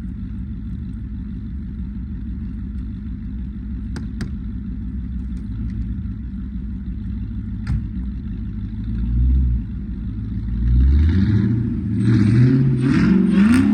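Dodge Hellcat's supercharged 6.2-litre V8 idling with a steady rumble, then revved hard in several rising and falling bursts from about nine seconds in, as the car spins donuts in the snow.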